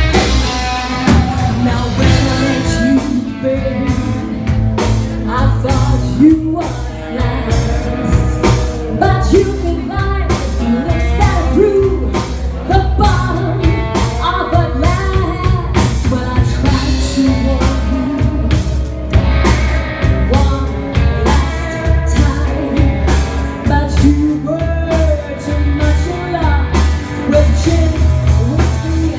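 Live blues-rock band playing an instrumental break: a lead line with bending, wavering notes over drum kit and bass, with a steady beat.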